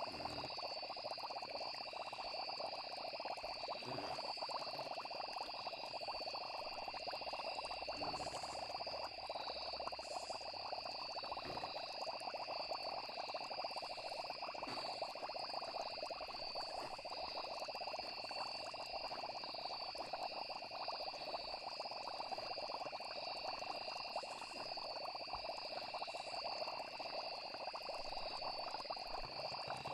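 Night chorus of frogs with a continuous high trill of crickets or other insects, steady throughout, with a few faint low knocks.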